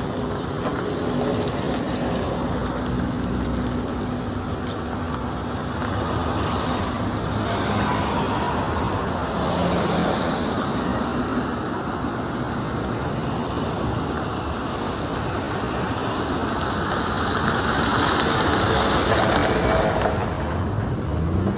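Steady motor-vehicle road noise: engine hum and rushing road noise, swelling slightly near the end.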